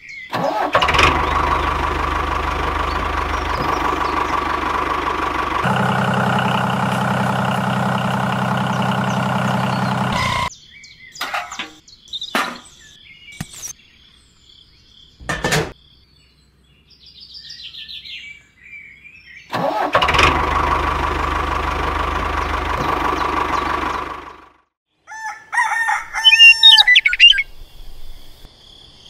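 A small motor running steadily for about ten seconds, its tone shifting about halfway through, then a few sharp clicks and a second shorter run. Loud bird chirps follow near the end.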